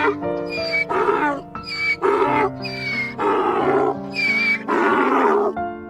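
Donkey braying, a run of hee-haws that alternate between high, wheezy and low, rough calls, over background music with held notes. The braying stops just before the end.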